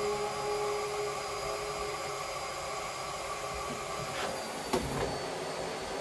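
Vacuum cleaner running steadily, with a single sharp click about three-quarters of the way through.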